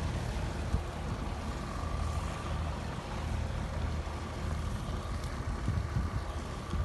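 Small fishing boat's engine running steadily under way, a low drone with an even pulse under a broad hiss of wind and water.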